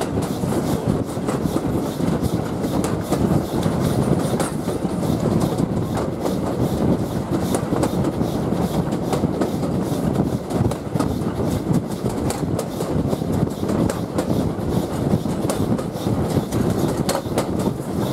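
Steam-hauled heritage train running along the line, heard from a carriage window just behind the locomotive: a steady rumble of wheels on rail with scattered clicks from the rail joints.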